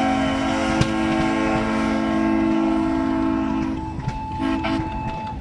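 Steam whistle blowing a long, steady multi-tone chord, the lunchtime whistle at a steam show, cutting off about four seconds in. A fainter single-tone whistle carries on after it.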